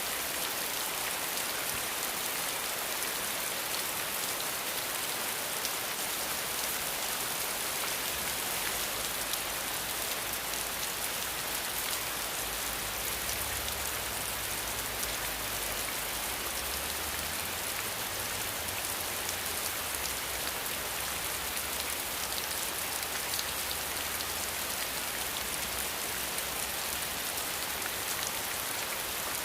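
Steady rain falling on surfaces: an even, dense hiss of many drops that goes on without a break.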